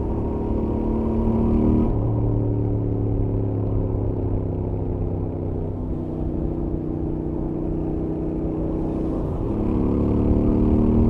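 Royal Enfield Interceptor 650's 648 cc parallel-twin engine on its stock exhaust, running at highway speed. The engine note eases off about two seconds in, then rises in pitch from about nine and a half seconds as the bike accelerates.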